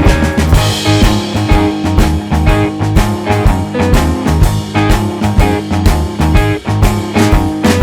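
Background music: an upbeat rock-blues track with electric guitar and a steady drum beat.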